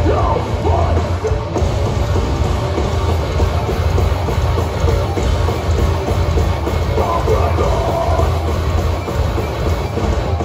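Live heavy hardcore band playing loud and without a break, with a dense, heavy bottom end of bass and drums.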